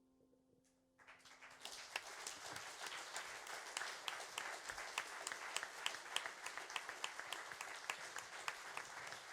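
Concert audience applauding, breaking out suddenly about a second in over the fading last held notes of the song, then a steady, dense clapping.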